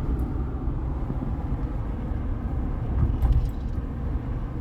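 Steady low rumble of a car, with a few light clicks about three seconds in.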